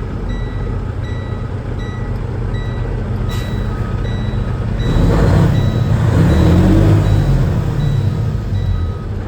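Diesel engine of a 2012 Freightliner tri-axle dump truck running, with a backup alarm beeping steadily about every three-quarters of a second. The engine grows louder for a few seconds from about halfway through, then eases back.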